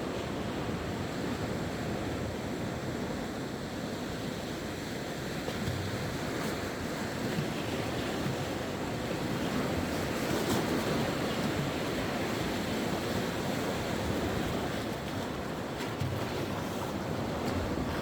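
Sea waves breaking and washing on the shore in a steady surf, swelling a little about halfway through, with some wind noise on the microphone.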